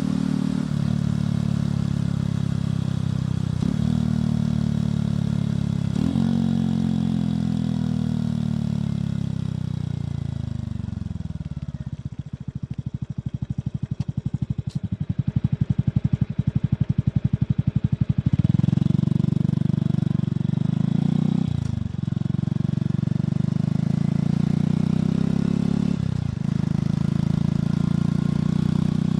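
Motorcycle engine and exhaust accelerating through the gears with several upshifts, then slowing down and idling, the separate exhaust pulses plainly audible for about six seconds, before pulling away again and shifting up twice more.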